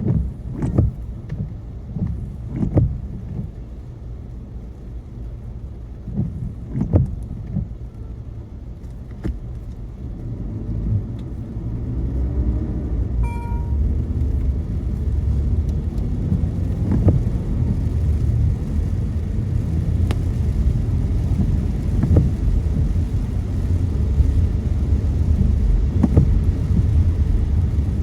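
Car cabin noise on a rain-wet road: low engine and tyre rumble with scattered thumps, quieter at first, then growing louder about ten seconds in as the car picks up speed and holding steady. A short electronic beep sounds near the middle.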